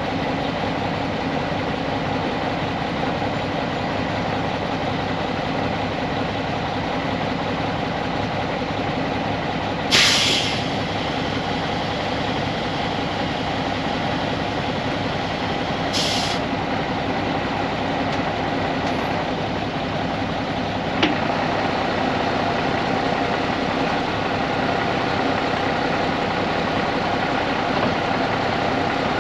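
Mack AMI diesel engine of a roll-off truck running steadily while the hoist body is worked, an engine the owner says misses and smokes. Two short bursts of air hiss about ten and sixteen seconds in, and a sharp click about twenty-one seconds in.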